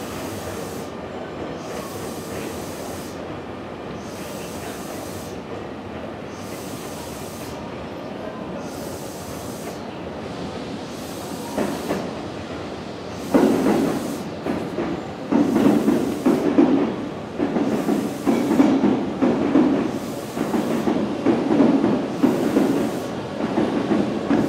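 A steady hiss from a stopped electric train, then about thirteen seconds in another train rolls in on the adjacent track, its wheels clattering rhythmically over rail joints and points, roughly a beat a second.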